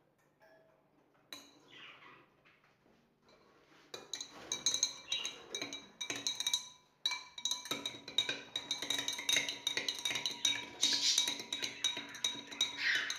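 Teaspoon stirring ground ginger into a glass of warm water, clinking rapidly against the glass so that it rings, starting about four seconds in after a few faint scrapes.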